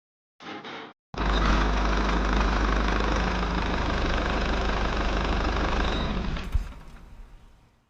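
A small engine running steadily with a strong low rumble. It cuts in abruptly about a second in and fades away near the end.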